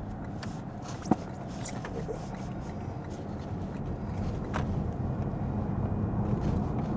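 Steady low road and tyre noise from inside the cabin of a 2022 Lexus ES 350 F Sport driving on wet roads. It grows a little louder toward the end, with one sharp click about a second in.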